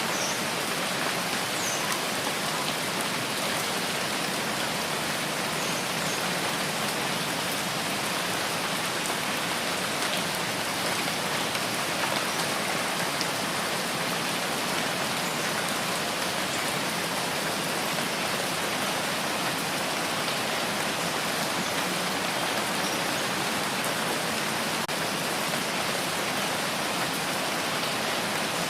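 Steady rain falling, an even, unchanging hiss with a few faint drop ticks scattered through it.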